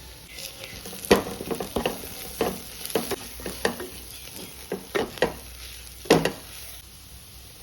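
Spoon stirring chicken roast masala in a pan, with a dozen or so sharp knocks and scrapes against the pan over a steady low sizzle. The two loudest knocks come about a second in and near the end.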